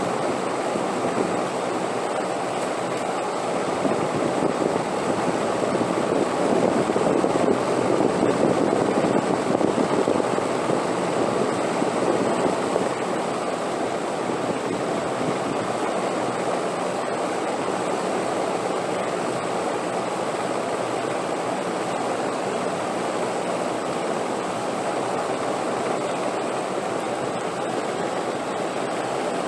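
Wind blowing steadily as a full rushing noise, swelling a few seconds in and easing back before the middle.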